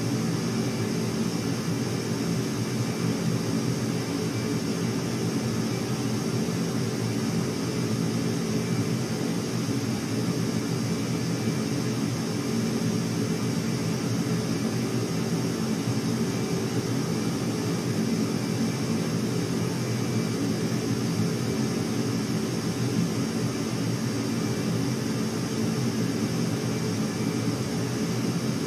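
Steady, unchanging drone of aircraft engines: several low steady tones under an even hiss.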